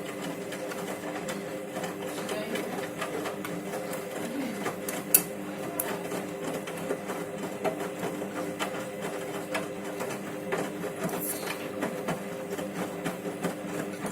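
Candy Grand'O Vita washing machine in the wash phase of a 20-degree eco cycle: the drum motor hums steadily while the tumbling load makes a run of small knocks, with one sharp click about five seconds in.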